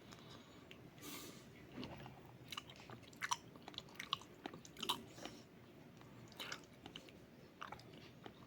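A person chewing and biting into a hotdog, quiet chewing with a dozen or so short mouth clicks and smacks scattered through.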